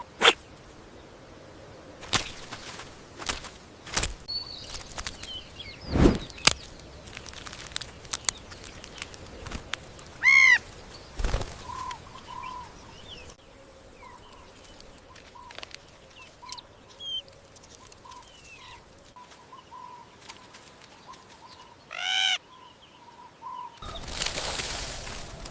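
Wild animal sounds: a string of short, high peeping calls, and two louder calls of about half a second each. There are scattered sharp knocks and rustles, and a loud whooshing rush near the end.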